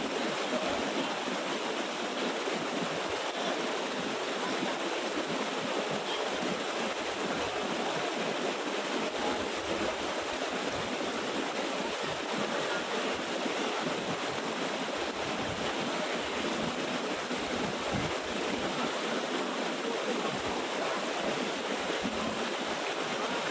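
Water of a small waterfall rushing steadily.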